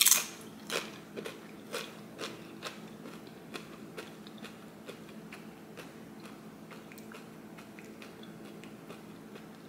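A person eating close to the microphone: a loud bite at the start, then chewing clicks about twice a second that fade away by about halfway through. The mouthful is food scooped with creamy spinach and artichoke dip.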